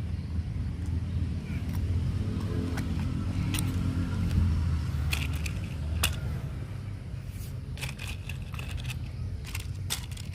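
Radio-controlled model running, a faint electric-motor whine rising about two seconds in over a steady low rumble, with scattered sharp clicks and crackles.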